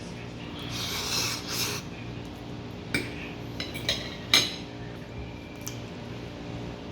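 Fork scraping across a plate while twirling pasta, then several light clinks of cutlery against the plate a few seconds in.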